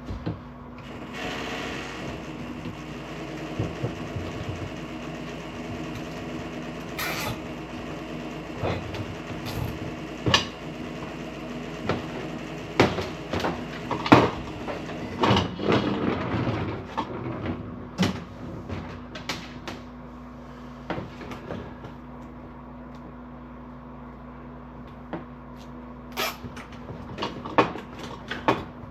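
Hands fastening wiring with zip ties: scattered clicks, knocks and rustles of handling, with a denser run of rasping clicks around the middle as ties are pulled tight. A steady low hum runs underneath.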